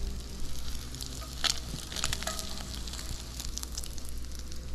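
Crab cakes frying in a cast iron skillet, a steady sizzle with many small crackles. Twice, around a second and a half and two seconds in, a spatula scrapes against the pan as it slides under a cake.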